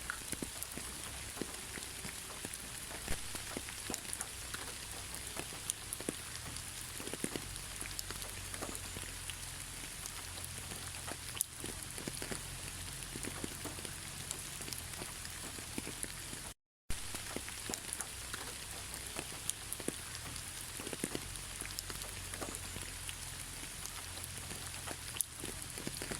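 Steady rain falling, with many separate drops ticking and pattering over an even hiss. About two-thirds of the way in the sound cuts out completely for a split second, then resumes.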